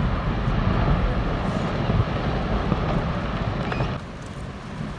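Low, noisy rumble of glacier ice collapsing into the sea, which drops suddenly quieter about four seconds in.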